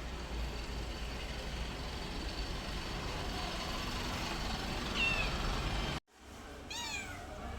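Domestic cat meowing: a short falling meow about five seconds in over a steady low background rumble. Then the sound cuts out abruptly and a cat gives one clear, falling meow.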